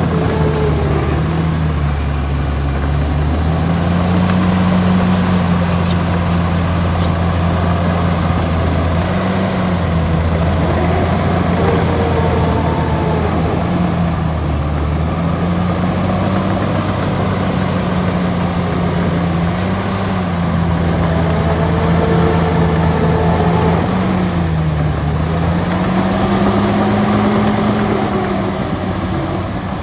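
Heavy diesel engine of earthmoving machinery running continuously under load. Its pitch dips and rises again every several seconds as the load changes.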